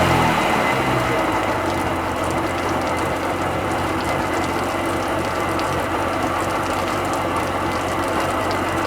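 Rebuilt Sea-Doo XP 720 two-stroke twin engine running unloaded on a garden hose with the jet pump driveline disconnected. Its revs fall away in the first second, and it then idles steadily.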